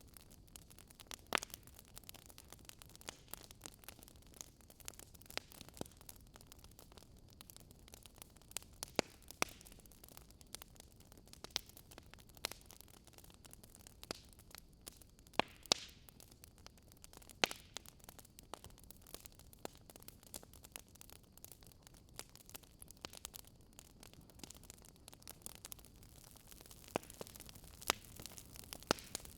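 Wood fire crackling softly: a faint steady hiss with irregular sharp pops and snaps, a few louder ones standing out.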